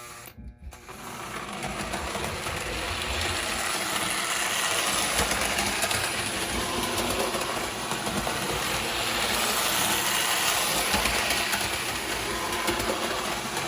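Electric model train running on its track: the motor and gearing whirring with the wheels rattling over the rails, starting up about a second in and then running steadily.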